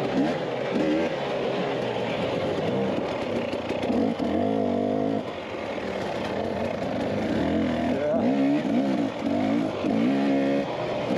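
Dirt bike engine revving up and down as it is ridden, the pitch rising and dropping repeatedly with throttle and gear changes, several quick rises in the second half.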